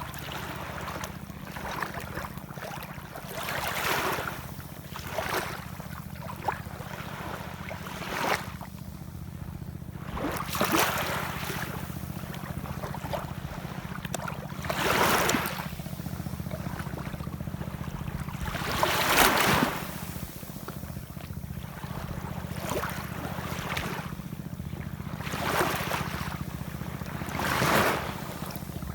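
Ocean waves washing in, one surge of spray and hiss every few seconds, the strongest about two-thirds of the way through, over a steady low rumble.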